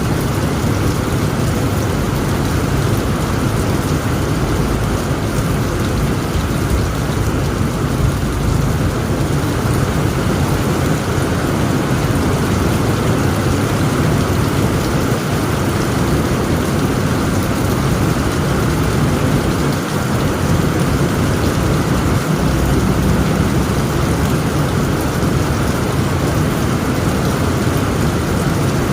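Heavy rain pelting steadily on a tent roof, a dense, unbroken hiss with a strong low rumble beneath it.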